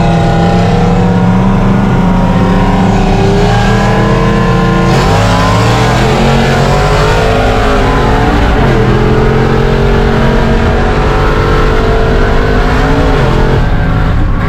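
LS V8 pickup truck engine at wide-open throttle in a roll race, its pitch climbing through each gear and dropping back at the shifts, about three times.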